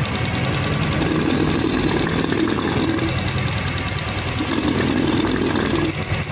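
Royal Enfield single-cylinder motorcycle engine idling steadily.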